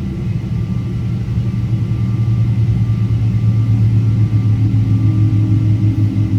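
Boeing 777-200 airliner's Pratt & Whitney PW4000 jet engines giving a low, steady rumble that slowly grows louder, with a faint higher tone joining near the end.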